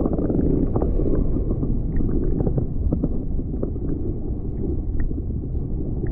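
Surf water heard through a submerged camera: a steady, muffled low rumble with scattered faint clicks, the higher sounds cut off.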